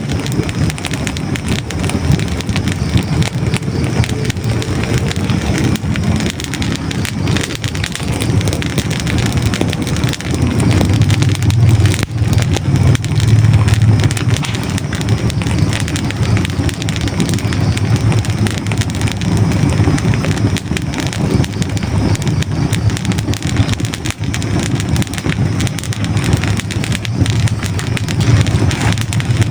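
Hardwood logs burning in a fireplace: dense, constant crackling and popping over a steady low rumble of flames that swells twice.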